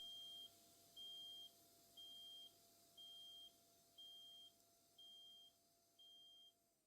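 Shop vac beeping after the power to the drill plugged into it is cut: seven short high-pitched beeps, one a second, growing fainter, over a faint hum that stops near the end.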